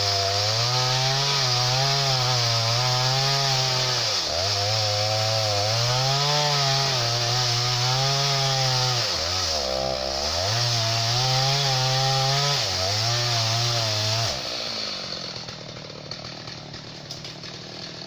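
Chainsaw cutting into a dry tree trunk, its engine speed sagging and recovering as the chain loads up in the cut, dipping hard twice. The engine cuts off about four seconds before the end.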